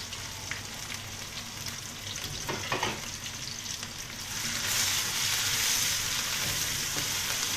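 Sliced onions and chillies sizzling in hot oil in a wok while being stirred with a wooden spatula, the first stage of frying the aromatics for a filling. The sizzle grows louder about four and a half seconds in.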